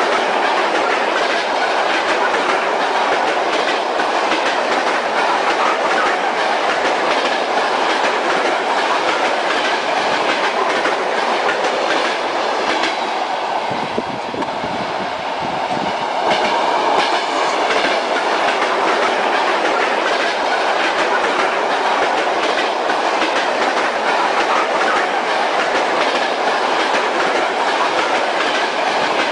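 Passenger train ride heard from inside the carriage: wheels knocking over the rail joints in a steady clickety-clack over a continuous rumble. The sound dips briefly about halfway through, then returns to its steady run.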